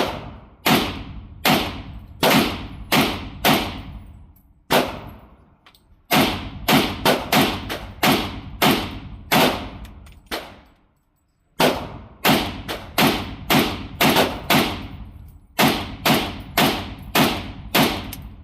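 Rapid gunfire from an AK-pattern pistol with a Franklin Armory BFT47 binary trigger, which fires one shot on the pull and another on the release: about three dozen shots in quick strings, each shot ringing briefly, with a pause of about a second past the middle.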